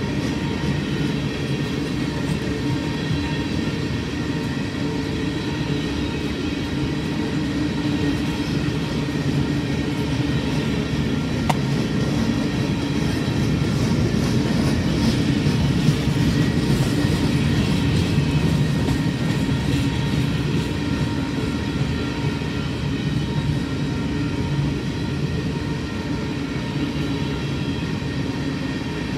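Coal hopper cars of a long, slow freight train rolling past on the rails: a steady rumble of wheels on track with thin, steady high tones above it, and a single sharp click a little before the middle.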